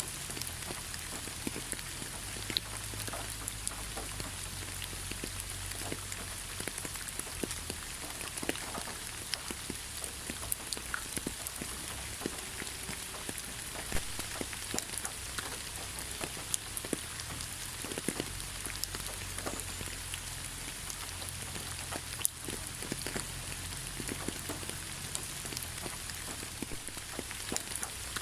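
Steady rain falling, with many separate drops striking close by at irregular moments.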